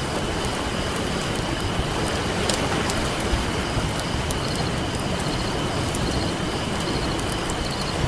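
Ocean surf washing in a steady hiss, with a wood campfire crackling over it in scattered small pops and one sharper snap about two and a half seconds in.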